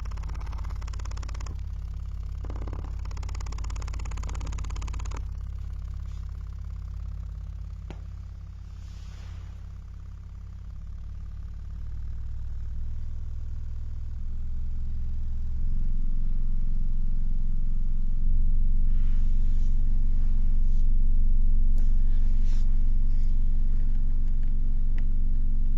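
Cerwin Vega Stroker 18D4 subwoofer playing a very low test tone: a deep steady hum with overtones that steps louder a few times in the second half. A few faint clicks come through, the kind of ticking that comes from cracked epoxy on the back of its worn cloth surround.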